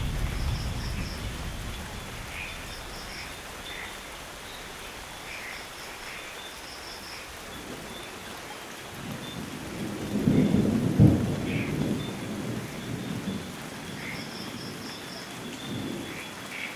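Steady rain falling during a thunderstorm. A rumble of thunder fades away over the first few seconds, and another peal of thunder rolls in a little past the middle, peaks and dies away.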